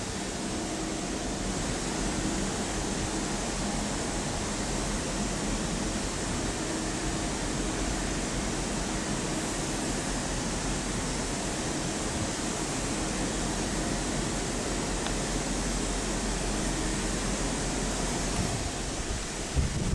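Railway station ambience: a steady rushing noise with a faint, even hum underneath.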